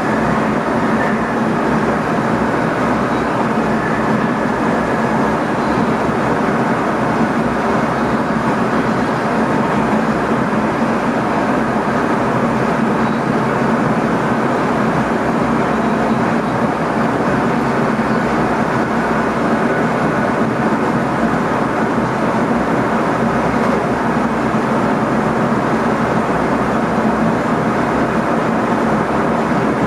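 Cab interior of an NS ICM (Koploper) electric multiple unit running along the line: a steady rumble of wheels on rail with a constant low electrical hum underneath.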